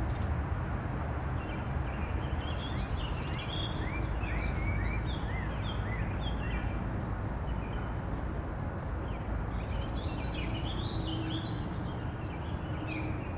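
Small birds chirping in short rising and falling notes, in two busy spells, over a steady low outdoor rumble.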